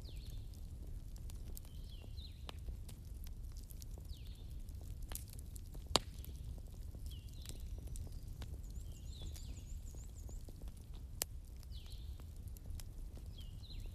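Campfire burning: a low steady rumble of flames with scattered crackles and sharp pops of burning wood, the loudest pop about six seconds in and another about eleven seconds in. Faint high descending chirps recur every second or two over the fire.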